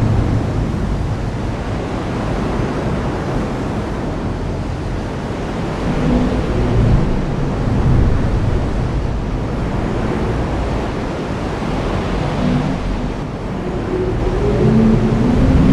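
Heavy rain pouring steadily, a dense even hiss, with deep low rumbles swelling up about six seconds in and again near the end.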